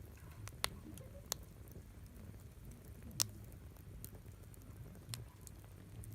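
Wood campfire crackling: sharp, separate pops and snaps a second or two apart over a low rumble, the loudest pop a little past the middle.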